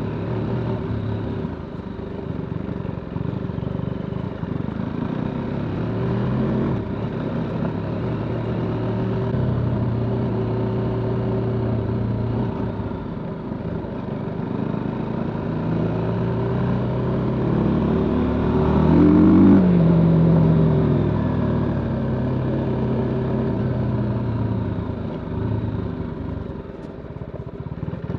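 TVS Apache RTR 310's single-cylinder engine and exhaust under way, running at steady revs for stretches with the pitch shifting as the throttle changes. About two-thirds of the way through, the revs climb sharply to the loudest point and then drop back.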